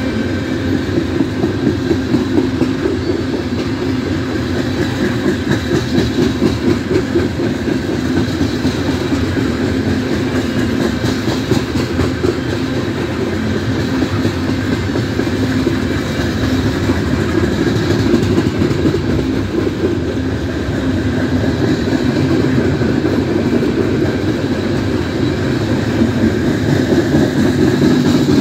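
Coal train's hopper cars rolling past, steel wheels rumbling steadily with a rapid, even clickety-clack over the rail joints.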